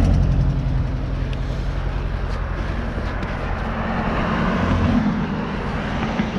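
NCM Aspen e-bike riding over rough ground: steady riding noise with a low hum that rises briefly in pitch about five seconds in.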